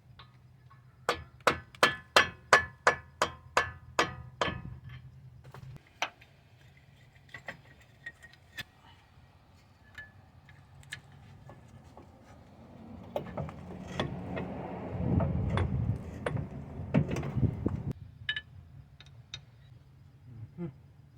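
A hammer strikes a steel tool driving out a stuck suspension bolt: a quick, even run of about ten ringing metal blows, roughly three a second. Scattered clinks of tools follow, then a few seconds of rough scraping and knocking of metal parts.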